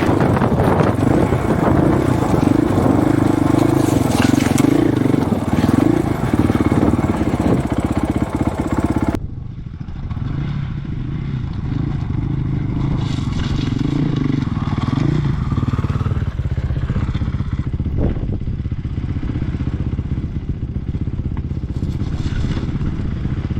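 Dirt bike engine running while riding, its pitch rising and falling with the throttle, with heavy wind noise on an unshielded microphone. About nine seconds in, the sound changes abruptly: the wind noise drops away and a lower engine note carries on.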